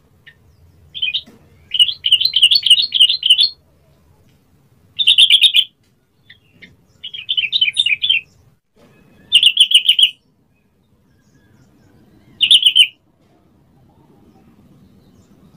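Yellow-vented bulbul singing: about six short, bubbly, chattering phrases of quick liquid notes, separated by pauses of a second or two.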